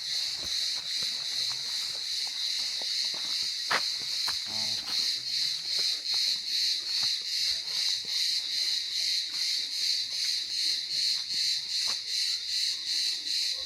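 Chorus of cicadas, a loud, even pulsing chirr repeating about three times a second. A single sharp click is heard about four seconds in.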